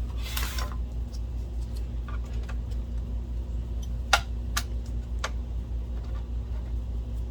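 Small clicks of a clip being handled and fitted onto the projector's lamp-door bypass switch: a brief rustle at the start, then three sharp clicks about four to five seconds in, over a steady low hum.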